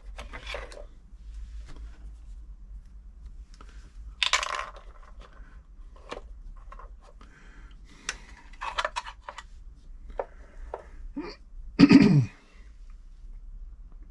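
Hands-on handling of a sewing machine while it is being threaded: scattered small clicks, taps and brief rustles, with a sharper rustle about four seconds in and a louder short thud about twelve seconds in.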